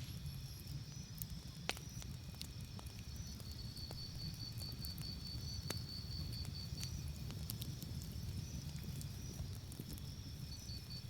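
Campfire crackling, with sharp scattered pops over a steady low rumble. A cricket chirps in an even pulsing trill from about three seconds in until past the middle, and again near the end.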